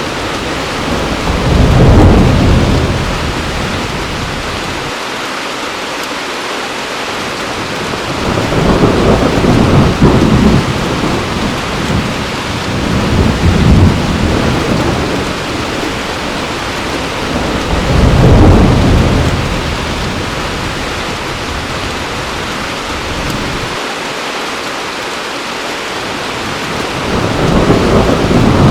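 Heavy rain falling steadily, with thunder rolling in low rumbles several times: once about two seconds in, a long roll through the middle, again a little later and once more near the end.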